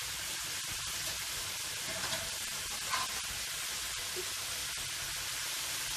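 A stir-fry of leunca berries, chilies, tomatoes and fried anchovies sizzling steadily in oil in a wok, with an occasional scrape of the metal spatula.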